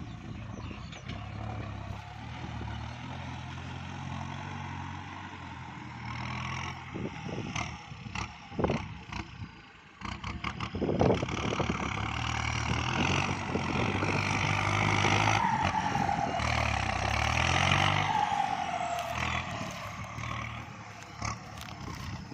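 Kubota MU5702 tractor's diesel engine running under load while plowing, with a few knocks about a third of the way in. It grows louder from about halfway, and a whine falls in pitch near the end.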